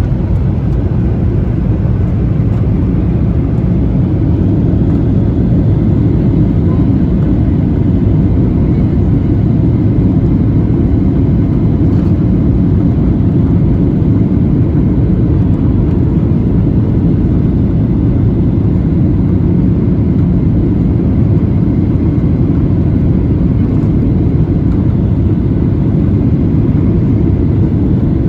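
Steady in-flight noise of a Boeing 737-800 during its descent: an even, low rush of airflow and CFM56 engine noise, with no distinct events.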